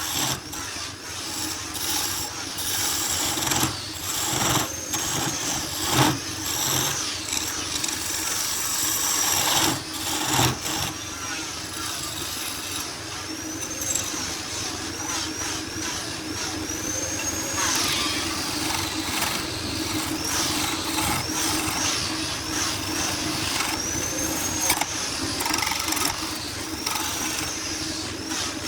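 Woodworking power tool running steadily, with a high whine that rises and falls again and again and a few sharp knocks.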